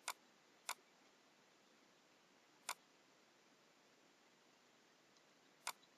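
Computer mouse buttons clicking four times, single sharp clicks: two close together at the start, one a little before the halfway point and one near the end, over a faint steady hiss.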